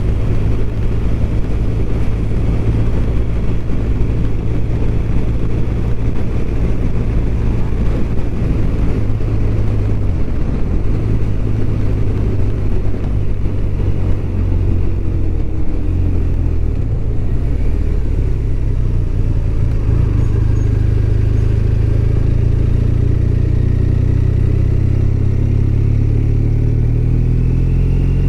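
BMW R1200RT's flat-twin boxer engine running steadily under way, heard from the moving bike. The engine note dips about ten seconds in, then climbs steadily near the end as the bike accelerates.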